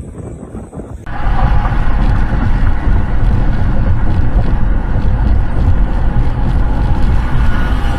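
Loud, steady vehicle rumble with wind buffeting the microphone, starting abruptly about a second in.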